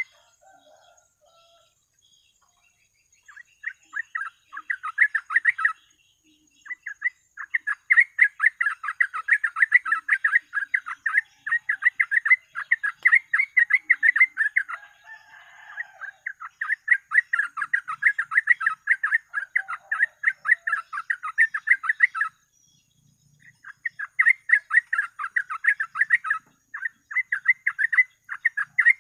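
Yellow-vented bulbul (burung trucuk) singing in long runs of rapid, chattering notes, with short breaks between runs.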